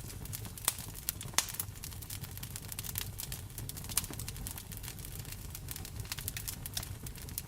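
Wood fire crackling in a fireplace, with irregular sharp pops, the loudest about a second and a half and four seconds in, over a steady hiss of rain.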